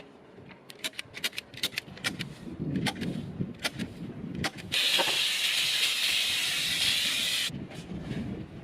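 Scattered clicks and knocks, then a loud steady hiss, like a jet of pressurised air, starting about five seconds in, lasting about three seconds and cutting off sharply, followed by more clicks.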